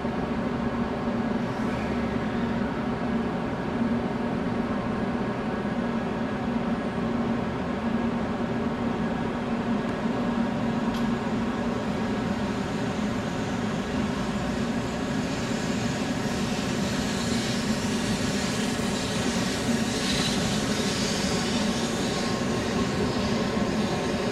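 Steady electric hum of a Shinkansen train on the platform track, with many even tones, and a hiss that builds over the second half.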